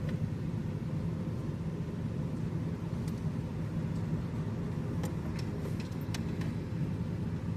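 Car engine idling with a steady low hum, with a few faint clicks about three seconds in and again around five to six seconds in.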